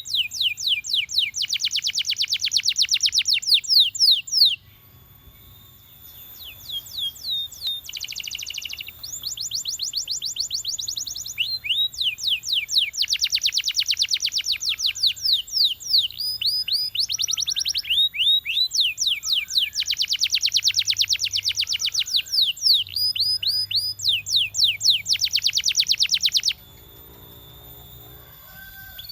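A domestic canary singing in long, fast trills of rapidly repeated downward-sweeping notes, changing from one trill to the next. The song breaks off briefly a few seconds in, and stops again a couple of seconds before the end.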